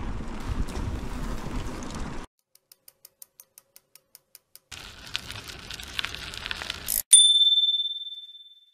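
A bicycle bell dings once, loud and sharp, and rings out at one high pitch, fading over about a second and a half. Before it come rustling riding noise and a run of fast, even ticks.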